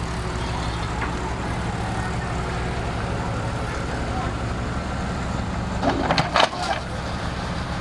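Heavy earth-moving machine's diesel engine running steadily at idle, with a quick cluster of sharp knocks about six seconds in.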